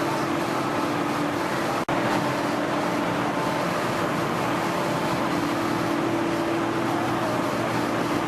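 Steady machine hum: a constant low tone over an even noise, with a brief dropout about two seconds in.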